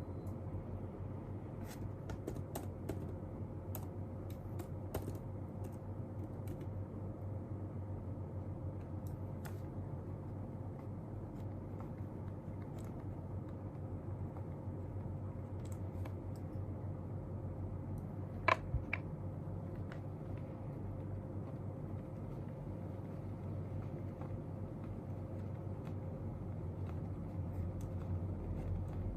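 Scattered light clicks and taps of desk work, like typing, over a steady low room hum, with one sharper click a little past halfway.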